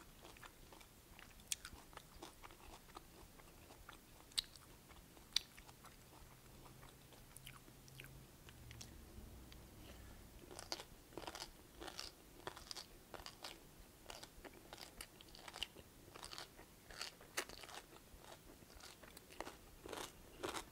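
Faint, close chewing and crunching of a stir-fry of spiralized kohlrabi noodles with julienned carrots and bean sprouts. It starts as a few sharp clicks and grows into frequent crunching from about halfway through.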